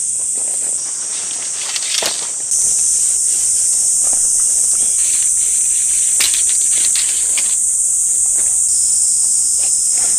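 Steady high-pitched insect chorus, with scattered clicks and knocks over it. The chorus steps up in level about two and a half seconds in.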